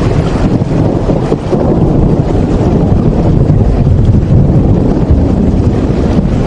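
Steady, loud rain noise with a deep rumble underneath, even throughout with no breaks or single events.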